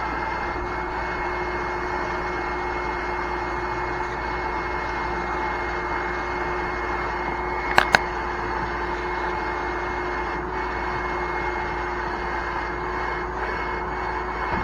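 Shop vacuum running steadily with a constant whine, sucking broken window glass out of a car's interior. Two sharp clicks come close together about eight seconds in.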